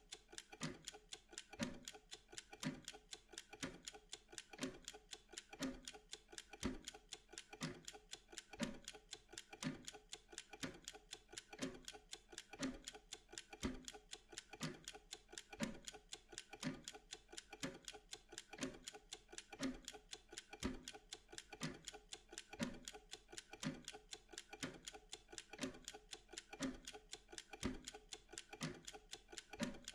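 Steady, even clock-like ticking of a timer, many light ticks a second with a stronger, deeper tick about once a second.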